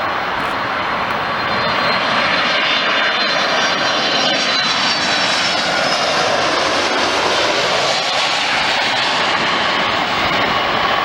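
Airliner engines, a loud steady rush of noise with a faint high whine running through it.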